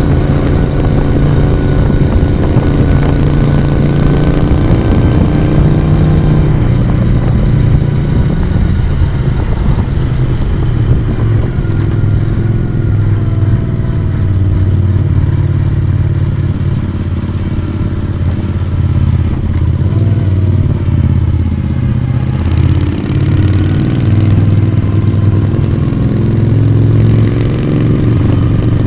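Moto Guzzi V35's air-cooled V-twin engine and exhaust running under way. Its pitch falls and rises with the throttle, easing off in the middle and then pulling up again toward the end.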